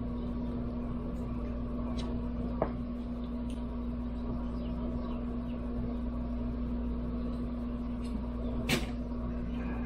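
A steady, unchanging hum in the shop with one constant tone, broken by a few light clicks and one sharper click near the end.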